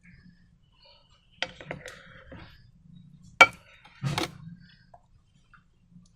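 A few sharp clicks and taps of small objects being handled while making slime, the loudest a single crisp click about three and a half seconds in, followed by a short clatter.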